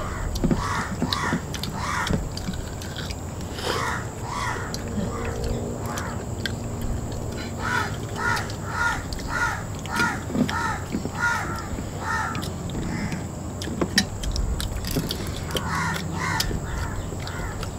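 A bird calling in four runs of short repeated calls, about two a second, with the longest run of about nine calls in the middle. Scattered clicks and smacks from people eating with their hands come in between.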